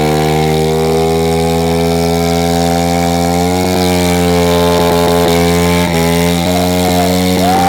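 Coolster 110 pit bike's small single-cylinder four-stroke engine held at high revs during a stationary burnout, its rear tyre spinning on concrete. The engine note stays nearly steady, stepping up slightly a few times.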